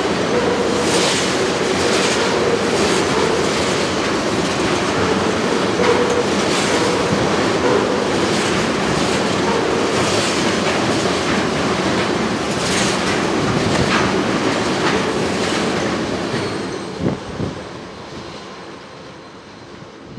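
Train rolling past, its wheels clicking over rail joints over a steady rumble and hum. The sound drops away over the last few seconds as the end of the train passes.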